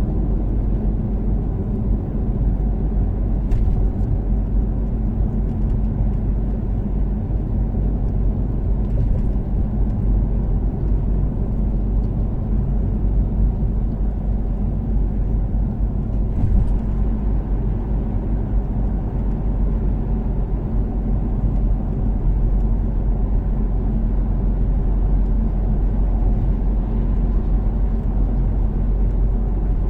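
Toyota Caldina's 3S-GTE turbocharged four-cylinder engine droning at a steady cruise, with tyre and road rumble beneath it, at an even pitch with no revving.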